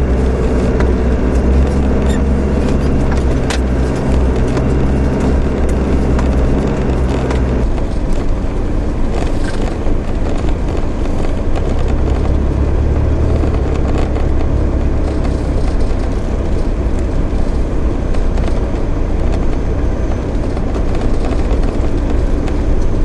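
Land Rover 4WD engine running steadily as it drives along a dirt track, heard from inside the cab. The engine note changes abruptly about seven seconds in, then carries on as a steady low drone.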